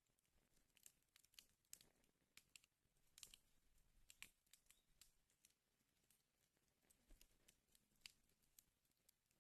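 Wood fire in a fireplace crackling faintly, with irregular sharp pops and snaps coming every fraction of a second over a soft low rumble.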